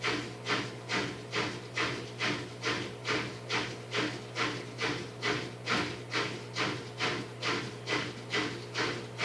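Brastemp 12-place stainless-steel dishwasher running a wash: water spray swishing in a regular rhythm, about two and a half sweeps a second, over the steady hum of the pump.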